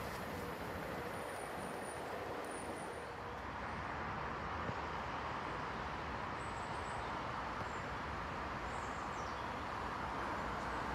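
Distant approaching train, heard as a steady rumble and hiss, with a few faint high bird chirps.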